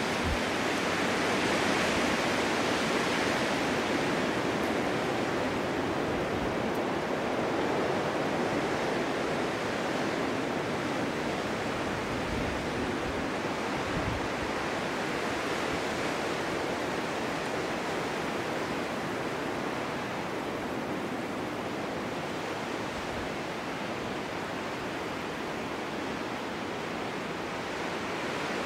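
Snowstorm wind blowing steadily, a broad rushing noise that swells a little early on and eases slightly later.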